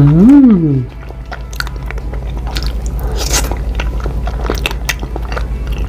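Close-miked chewing of a daifuku (soft mochi rice cake): sticky, wet mouth clicks and smacks. They follow a brief rising-and-falling hum in the first second.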